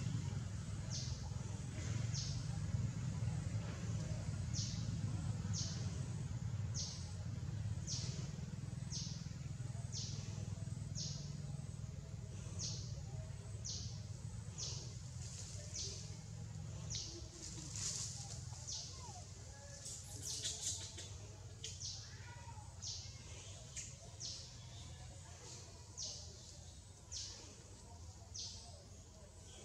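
A bird calls a short, high note over and over, about once a second, over a low steady rumble that weakens through the second half.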